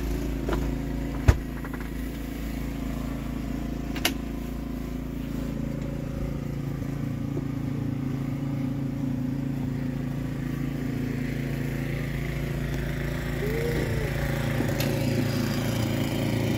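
An engine running steadily, with a sharp knock about a second in and another, fainter, about four seconds in.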